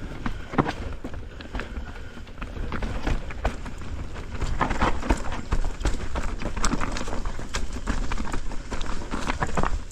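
Downhill mountain bike clattering over rough trail: repeated sharp knocks and rattles from the tyres, chain and frame hitting roots and rocks, with a steady low rumble of wind on the microphone.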